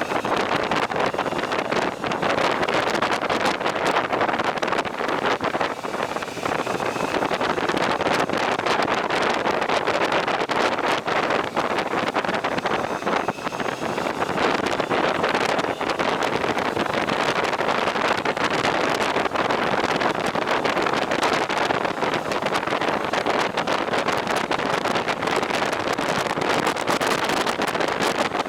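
Wind buffeting the microphone of a moving motorcycle: a steady rushing noise with engine and road noise beneath it.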